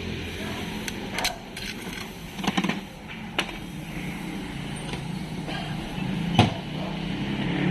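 A handful of sharp metallic knocks and clinks, the loudest about six and a half seconds in, from work on a dismantled automatic transmission, over a steady low hum.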